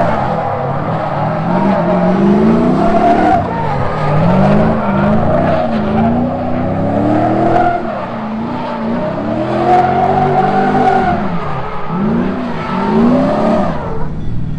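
LS1 V8 in a Mazda MX-5 NC drift car, revved up and down over and over as it is thrown through a drift, with tyres squealing. The revs rise and fall about every one to two seconds, and the sound drops away near the end.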